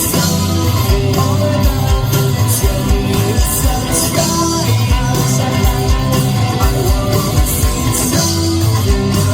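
Live rock band playing loudly, with electric guitar, a steady drum beat and singing, as heard from the crowd.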